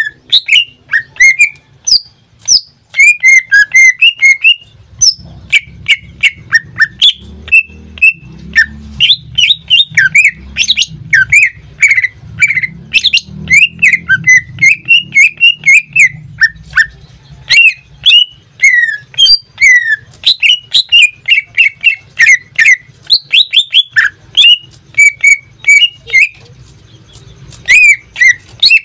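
Cucak ijo (green leafbird) singing a fast, unbroken run of chirps, whistles and sharp clicking notes that sweep quickly up and down in pitch.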